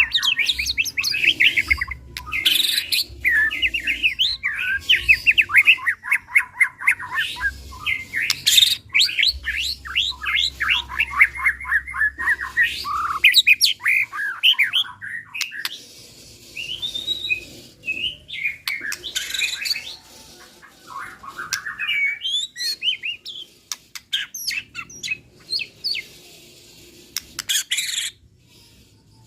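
White-rumped shama (murai batu) singing: long runs of fast, rapid-fire repeated notes mixed with clear whistles, in phrases broken by short pauses.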